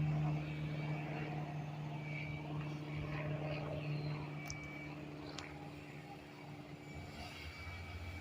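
Airplane flying by: a steady engine drone that slowly fades.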